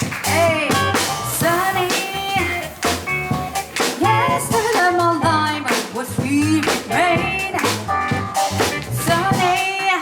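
Live jazz band: a singer's voice gliding and wavering in pitch over piano, double bass and a drum kit with regular cymbal and drum strokes.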